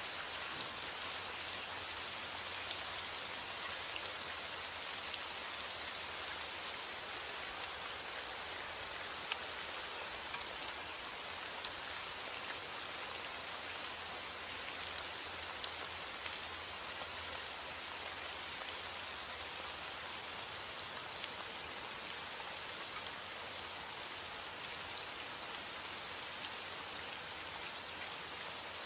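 Steady heavy rain: a dense, even hiss of falling rain with many fine drop ticks on a surface.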